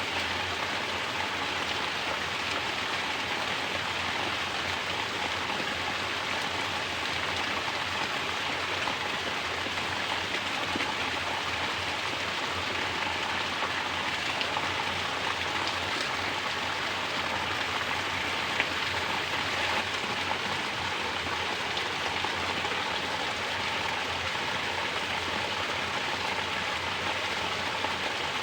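Mountain water pouring down in a natural shower and splashing, a steady even rush with no let-up.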